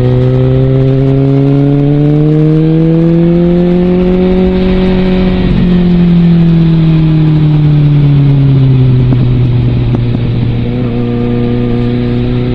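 Suzuki GSX650F's inline-four engine running through an aftermarket Scorpion exhaust while riding. The engine note climbs steadily for about five seconds, falls back over the next several seconds, then holds steady.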